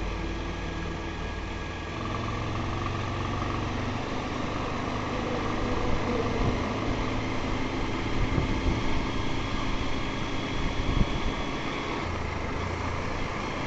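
Motorcycle engine running steadily under road noise, with a few louder knocks about eight to eleven seconds in.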